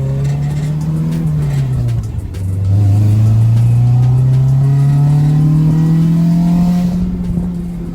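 Honda del Sol's four-cylinder engine accelerating: its note drops at a gear change about two seconds in, then climbs steadily and louder through the revs before easing off near the end.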